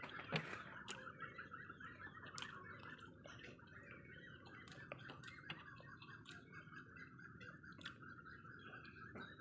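Faint, steady chirping of birds, with a few soft clicks from eating by hand.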